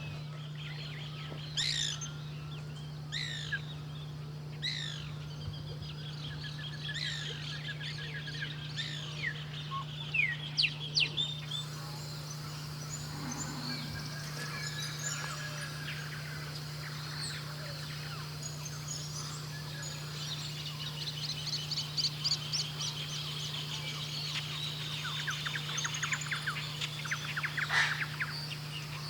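Wild birds calling and singing over a steady low hum: for the first eleven seconds, sharp falling notes about every second and a half amid softer chatter, then, in the second half, denser runs of rapid chattering notes.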